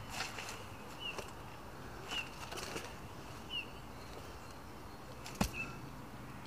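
A bird giving a short, high chirp over and over, about once every second or so, five times. Scattered soft clicks and rustles, with one sharp knock about five and a half seconds in.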